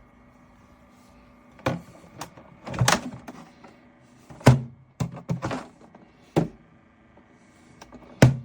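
Thermoelectric mini fridge humming steadily, with several thuds and clicks of handling over it. The loudest knocks come about four and a half seconds in and near the end.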